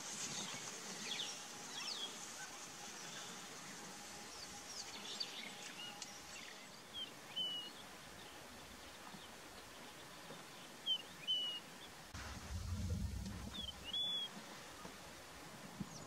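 Wild birds calling: several short, sharp whistled notes a few seconds apart over faint high chirping. A brief low rumble comes in about three-quarters of the way through.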